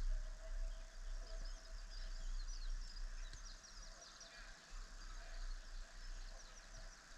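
Birds chirping: many quick high chirps, over a steady low rumble.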